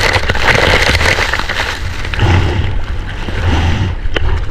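Ocean whitewater rushing and sloshing around a surfer caught inside the break, heard on a waterproof action camera, with a steady low rumble of wind on the microphone.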